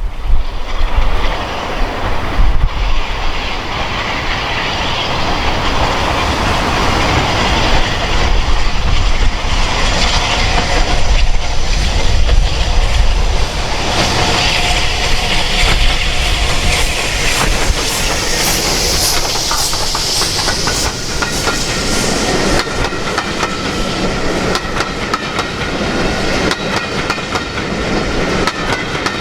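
A train passing close by, its carriage wheels clicking rhythmically over the rail joints over a continuous rolling rumble. A thin steady squeal joins in during the latter part.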